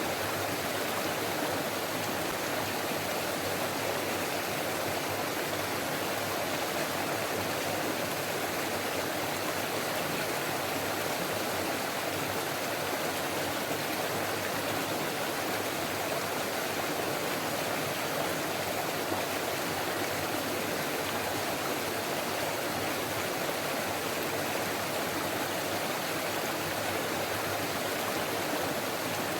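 Forest stream flowing and babbling steadily, an even rush of water with no breaks.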